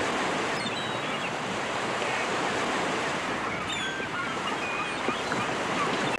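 Steady surf of ocean waves washing on a beach, with a few faint, short, high bird calls over it.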